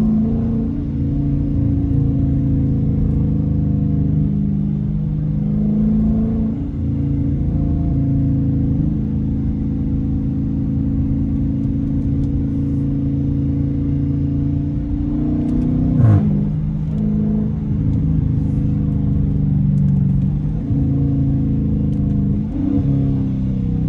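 Dodge Challenger R/T's 5.7-litre Hemi V8 driving on a straight-piped exhaust with a steady, deep drone. Its pitch shifts several times as the throttle changes, with a sharp rev and falling pitch about 16 seconds in and another drop near the end.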